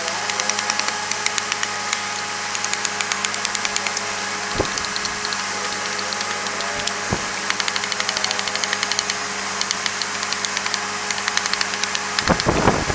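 A machine motor running at a steady speed, with fast ticking throughout. There are single sharp knocks about four and a half and seven seconds in, and a louder rough burst near the end.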